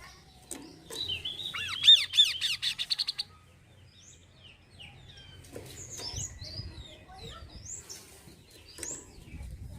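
Kasokaso bird singing: a loud, rapid run of arched whistled notes, about five a second, starting about a second in and lasting some two seconds, followed by quieter scattered short chirps.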